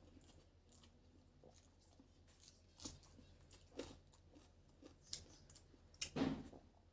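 A person eating with the mouth close to the microphone: faint chewing with a few short wet smacks and clicks, and a louder, longer mouthful sound about six seconds in.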